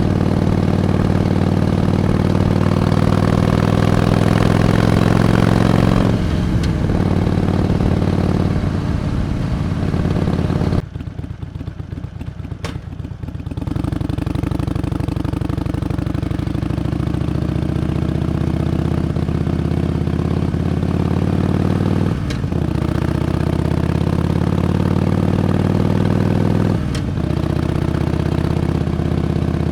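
Harley-Davidson Iron 883's air-cooled V-twin engine pulling up through the gears, its pitch rising in each gear, with a shift about six seconds in. The throttle comes off for a couple of seconds near the middle and the engine goes quieter. It then pulls again, with more shifts late on.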